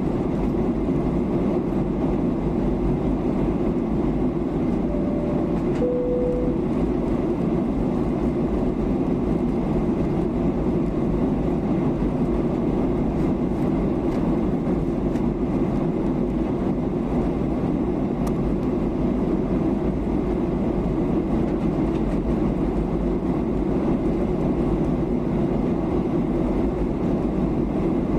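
Steady cabin roar of a Boeing 737-800 airliner in flight, a low, even drone of engine and airflow noise. About five seconds in, two short tones sound, the second lower than the first.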